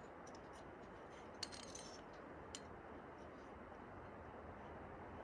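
A few faint metallic clicks and clinks of climbing gear, a cluster about a second and a half in and one more near two and a half seconds, over a low steady hiss.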